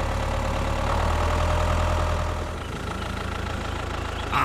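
An engine idling steadily with a low hum and a faint whine that swells slightly and then fades about two and a half seconds in.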